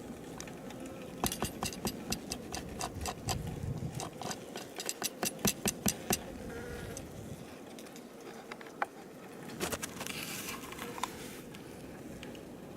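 Honey bees buzzing faintly in an opened winter hive, with a run of sharp irregular ticks and taps over the first half, several a second.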